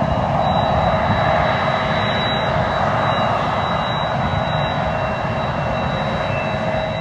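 Jet airliner's engines, a loud steady rumble with high whining tones running through it.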